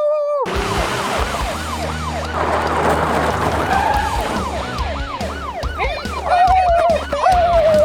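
Police siren in a fast yelp pattern, its pitch rising and falling about three times a second, over a steady low engine rumble. Near the end a held, wavering pitched tone joins it.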